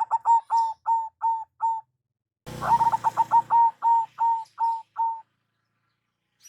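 Zebra dove (perkutut) calling: two bouts of short, high cooing notes. In each bout the notes come fast at first, then slow and spread out. The second bout starts about two and a half seconds in.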